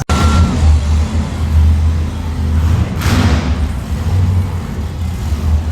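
Monster truck engine running with a loud, low rumble, swelling briefly about three seconds in.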